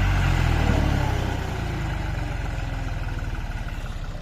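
Tractor diesel engine running hard, then easing off about a second in to a lower, slower run with its separate firing beats audible.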